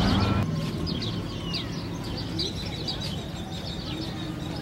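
Birds chirping in many short, high notes, one of them sliding down in pitch, over a low steady hum. About half a second in, the tail of passing traffic noise cuts off abruptly.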